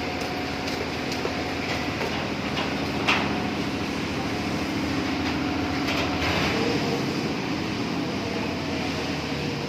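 Steady construction-site machinery running, with a low hum held through the middle and a few scattered knocks, the loudest a sharp knock about three seconds in.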